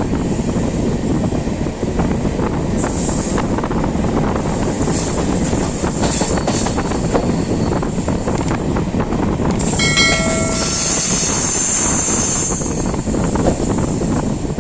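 Express train running with a steady rumble of wheels on the track. A short horn note sounds about ten seconds in.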